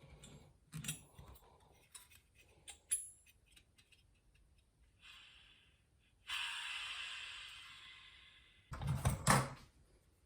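Small metal parts of a model jet turbine clicking and lightly ringing as they are handled with tools, then a hiss of about two seconds that fades, and a few knocks near the end.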